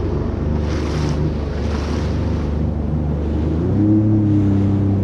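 Jet ski engine running steadily on the sea, with two short rushing hisses about one and two seconds in; its engine note steps up a little near the end.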